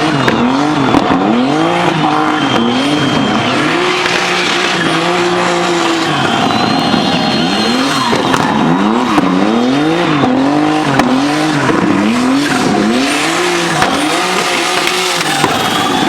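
Turbocharged BMW E36 engine revving up and down again and again as the throttle is worked through a drift, with tyres squealing as the car slides sideways.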